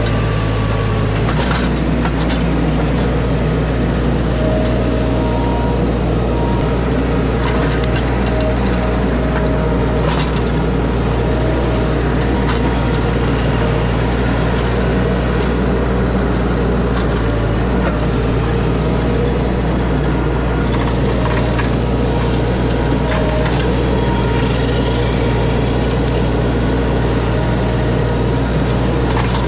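A mini skid steer's engine running steadily under work, with scattered sharp cracks and knocks as tree debris is handled.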